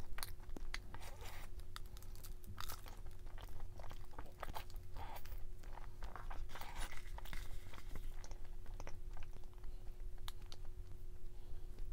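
A person chewing and biting crunchy food close to the microphone, in irregular crunches and mouth clicks, over a faint steady hum.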